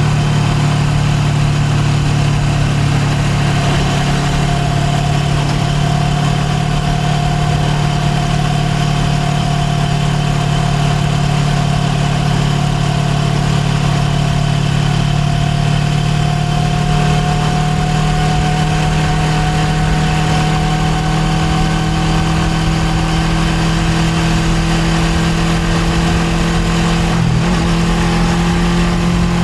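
Suzuki GSX250R's parallel-twin engine running at a steady cruising speed, heard from on board; the note holds level with only a slight drift in pitch.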